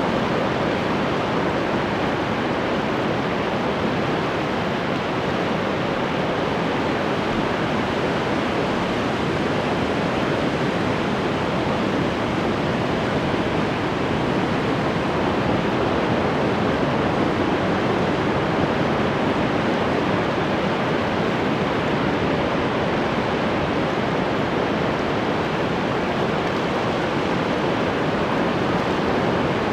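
Ocean waves washing on the shore, a steady dense wash of surf without distinct breaks.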